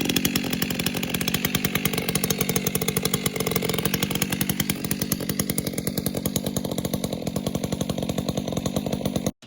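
Two-stroke chainsaw engine running steadily with a fast, even buzz, cut off abruptly near the end.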